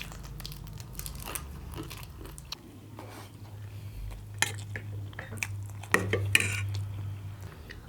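Close-miked eating: biting and chewing with crunchy crackles, and utensils clicking against a dish, over a steady low hum.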